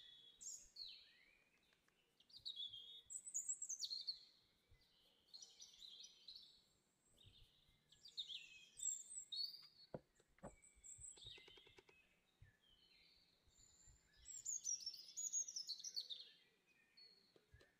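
Faint chirping of small birds: many short, quick, high falling chirps in bunches. There are a few soft taps about ten seconds in.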